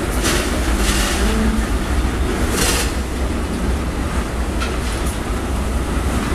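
Freight train of tank cars rolling past at close range: a steady low rumble of wheels on rails, with a few brief hissing bursts, the loudest about two and a half seconds in.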